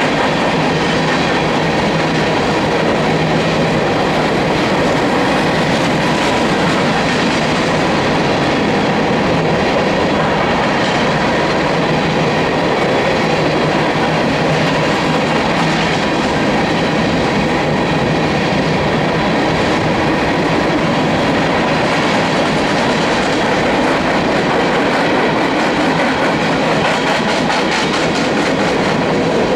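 Freight cars of a Union Pacific coal and autorack train rolling past, a steady rumble of wheels on rail with clickety-clack over the rail joints.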